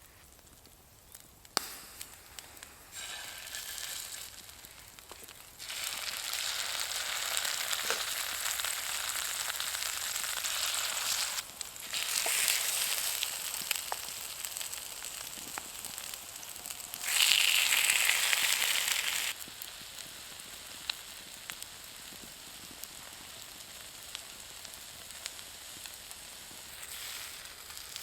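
Food sizzling in a hot pan over the campfire. The sizzle comes in several stretches that start and stop abruptly, is loudest a little past halfway, then settles to a softer steady sizzle with occasional faint crackles.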